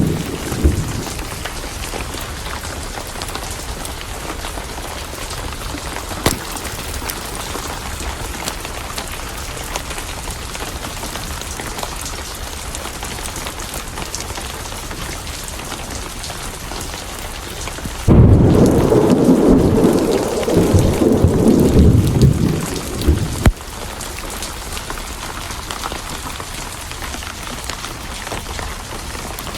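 Steady heavy rain with a thunder rumble fading out just after the start. About 18 seconds in, a loud roll of thunder rumbles for about five seconds and cuts off suddenly. A few sharp pops from a crackling wood fire come through the rain.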